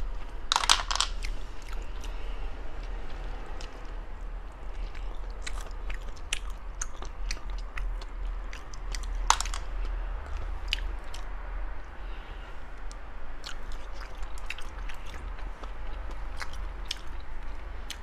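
A person chewing and biting seafood, with scattered sharp crunches and clicks, over a steady low hum.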